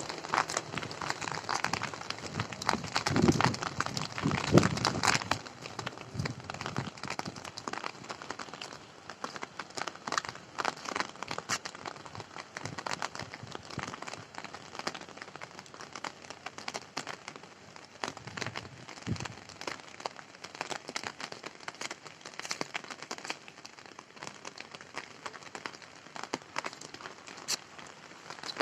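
Rain falling close by, a dense crackle of many sharp drop impacts on a hard surface. The first few seconds are a little heavier, with a couple of deeper thuds.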